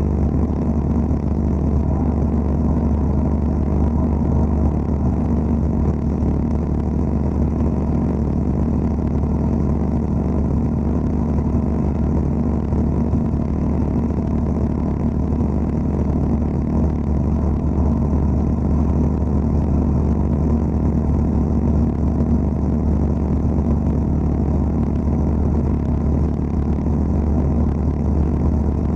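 Wet abrasive blasting (aquablasting) cabinet running steadily: a constant low hum with a dense rushing hiss of the water-and-abrasive blast.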